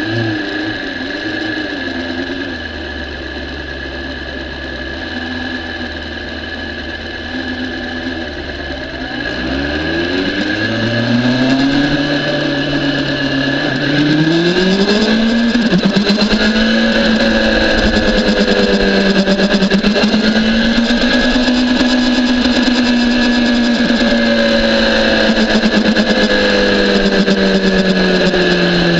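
BMW S1000RR sport bike's inline-four engine heard onboard: low and uneven at first, then climbing steeply in pitch as it accelerates about a third of the way in, held at higher revs with wind rush on the microphone, and easing off near the end.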